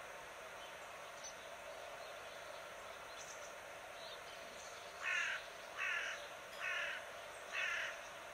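Nature ambience: a bird calls four times, about a second apart, in the second half, over a steady outdoor background with a few faint, short high chirps before.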